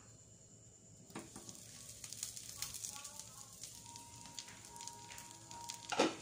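A malunggay-and-egg omelet sizzling in a frying pan on a gas burner. The crackle grows louder about a second in, when the glass lid is lifted off the pan. A single sharp knock near the end.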